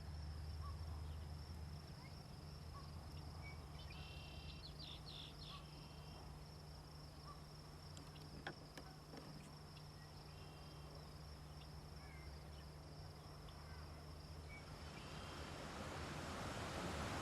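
Crickets or other insects trilling steadily in one high, thin tone. A few short chirps come about four to five seconds in, and a single click near the middle. A soft rushing noise swells near the end.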